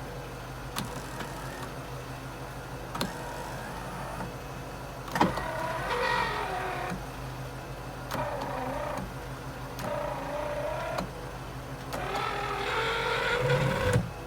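Power window motor and regulator of an SK82 Mazda Bongo van, run in four short strokes with a whine that glides in pitch. Sharp clicks come before them, the loudest just before the first run, over a steady low hum.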